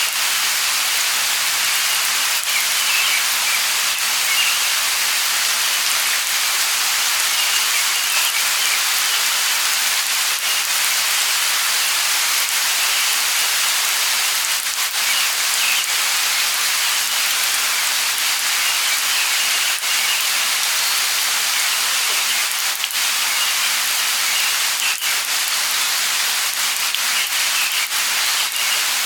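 Light rain falling steadily, a continuous hiss with scattered drop ticks, and faint bird chirps here and there.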